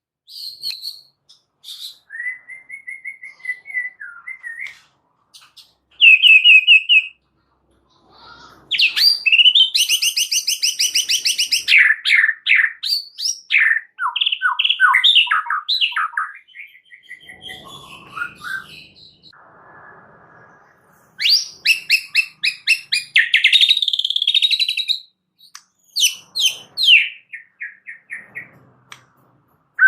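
White-rumped shama singing a long, varied song: clear whistled notes, fast loud trills and quick runs of falling notes, broken by short pauses. A rougher, harsher passage comes about two thirds of the way through.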